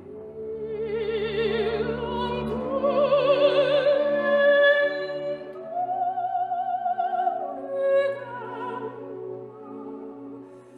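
Operatic solo singing with strong vibrato on long held notes, climbing in pitch around the middle, over orchestral accompaniment.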